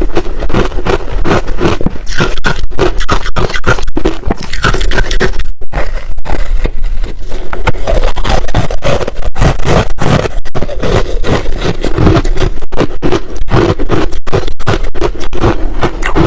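Close-miked chewing of crunchy ice: a dense, loud run of crunches that pauses briefly about five and a half seconds in.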